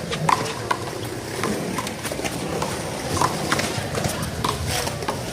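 Handball rally: the rubber ball is slapped by hand and smacks off the wall and court in an irregular series of sharp knocks.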